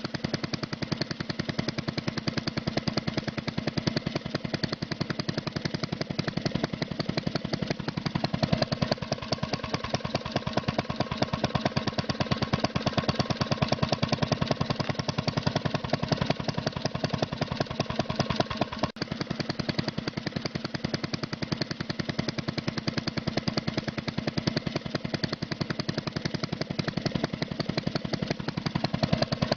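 Small engine of a DIY mini tractor running steadily, with a rapid, even firing rhythm.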